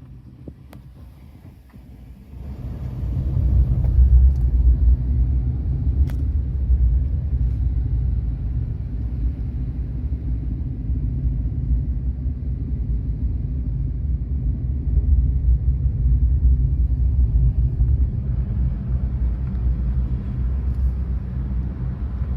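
Low, steady rumble of a car driving, swelling up about two and a half seconds in and holding.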